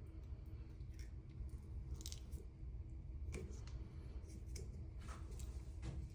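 Teflon thread-seal tape being stretched and wrapped around a shower arm's threads: faint crinkling, a few short rustles over several seconds.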